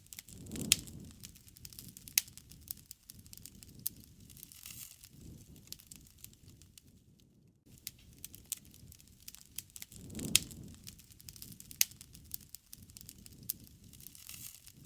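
Wood fire crackling, with sharp pops scattered irregularly over a low, fluttering rumble of flames that swells about a second in and again near ten seconds.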